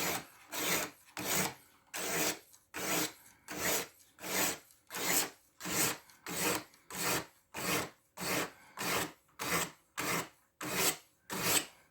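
A 400-grit diamond sharpening stone on a guided knife sharpener rubbed in even strokes along a 14C28N steel blade, about two strokes a second, each a short dry scrape.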